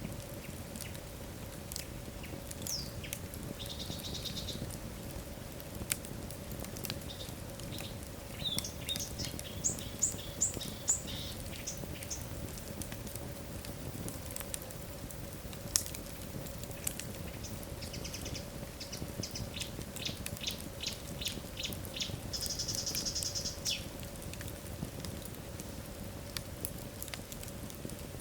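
Logs burning in a fireplace, crackling with sharp pops over a low rumble. Several runs of quick, high-pitched chirps come from the burning wood, and about two-thirds of the way through there is a brief high hiss.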